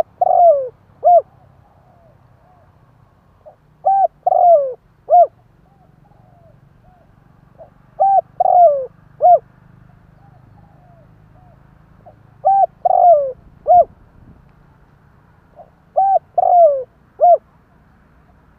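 Spotted dove cooing its three-note call, repeated about every four seconds: a short note, a longer falling note, then a short note, with softer coos between the phrases. It is a lure call meant to draw wild doves in.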